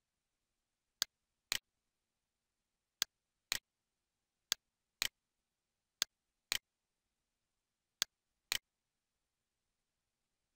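Computer mouse clicks: five pairs of short, sharp clicks, the two in each pair about half a second apart, with silence in between.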